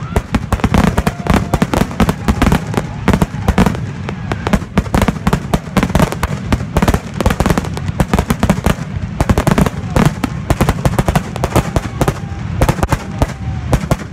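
A fireworks barrage: a rapid, unbroken run of loud bangs and crackles, many reports a second.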